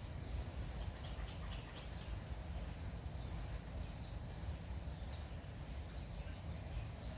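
Light rain falling steadily, with scattered short drip-like ticks and brief bird chirps over a low rumble.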